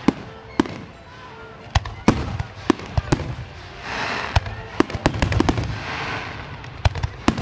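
Fireworks display: aerial shells bursting in many sharp bangs, irregularly spaced, with two longer crackling stretches about four and six seconds in.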